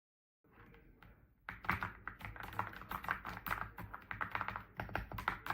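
Typing on an AULA F99 mechanical keyboard: after a faint start, rapid key presses begin about a second and a half in, in a fast, dense run of clicks.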